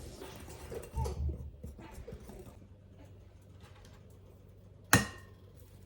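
Faint scattered handling noises and a soft low thud, then one sharp knock with a short ringing tone about five seconds in, as of a hard object striking something.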